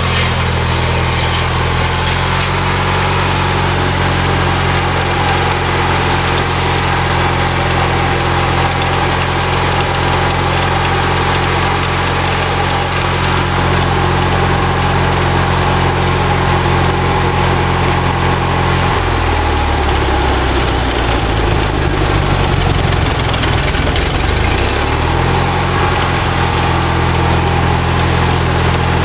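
Lawnmower engine driving a homemade sawmill, running steadily. A little past halfway its pitch sags and wavers for about five seconds, then comes back up.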